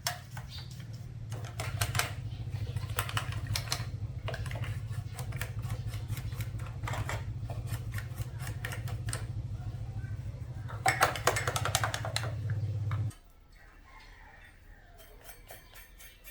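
Steady low electrical hum with scattered clicks and scraping over it; the hum cuts off suddenly about thirteen seconds in, leaving faint ticking.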